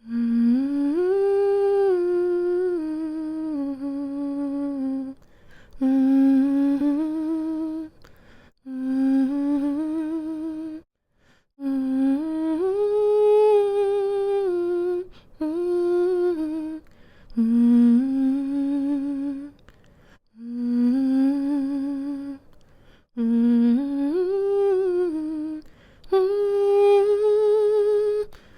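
A woman humming a slow lullaby-like melody in short phrases of a few seconds each, separated by brief pauses for breath, the pitch stepping gently up and down.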